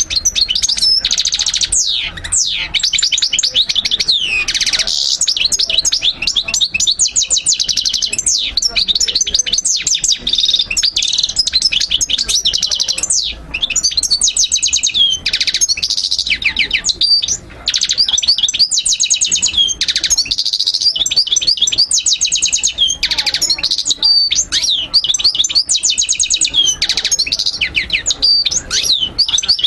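European goldfinch singing: a fast, unbroken twittering of high trills, chirps and buzzy notes, with only brief pauses.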